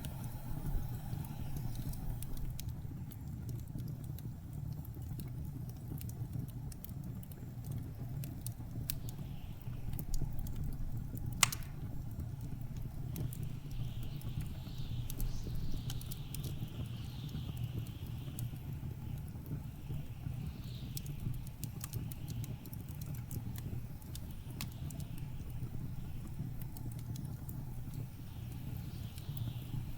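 Wood fire crackling with scattered small pops and one loud pop about eleven seconds in, over the steady low rumble of blizzard wind. From about halfway, gusts whistle high, rising and falling.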